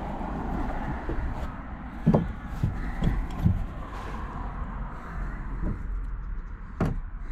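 Several short knocks and thumps from a small plastic kayak being handled while it is checked for water inside the hull, over a steady low rumble.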